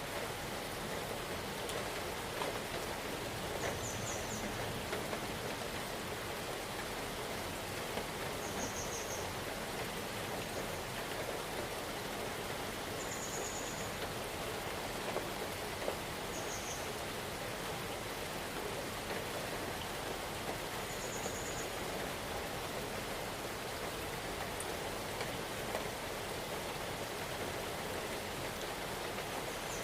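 Steady rain falling in a forest: an even hiss with scattered drop taps. A short, high, pulsed trill sounds about every four to five seconds.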